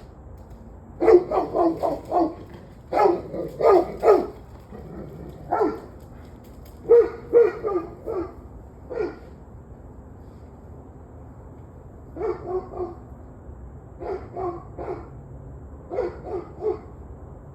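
A dog barking repeatedly in short runs of two to five barks, with a pause of about three seconds in the middle.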